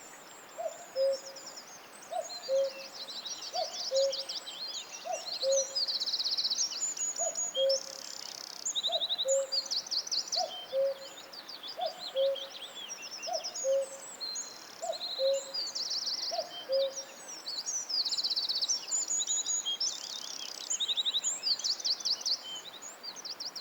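Forest birdsong: several small birds singing high trills and chirps over one another, while another bird repeats a lower two-note call, the first note higher, about once every second or so.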